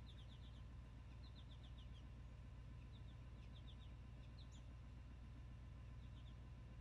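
Faint songbird chirping: short runs of three to five quick, high, falling notes every second or so, over a low steady hum.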